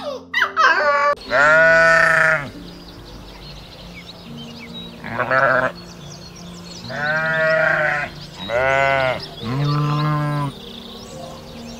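Sheep bleating: five long, wavering bleats, the first about a second in and the rest coming close together in the second half.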